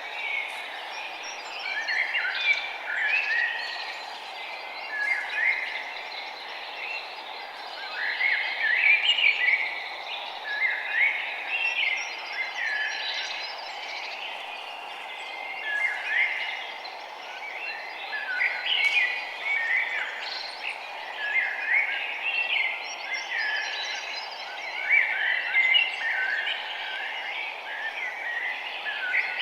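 Birds chirping over and over in short, quick phrases, one after another, over a steady background hiss.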